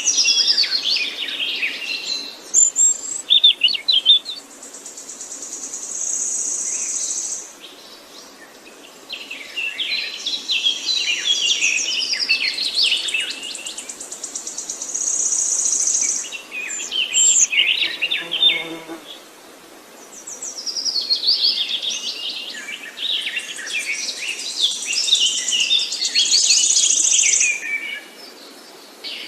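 Several songbirds singing and chirping in overlapping bouts of quick, high phrases, with long, steady high trills among them. There are short lulls between the bouts.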